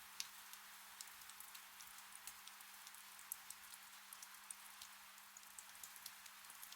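Gentle rain falling: a soft, steady hiss with many separate drops ticking throughout, over a faint steady low hum.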